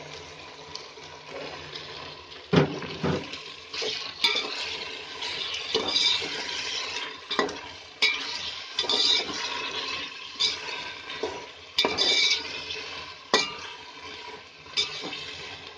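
Chopped tomatoes sizzling in hot mustard oil in an aluminium pot while a perforated steel spoon stirs them. The spoon scrapes and knocks against the pot every second or two.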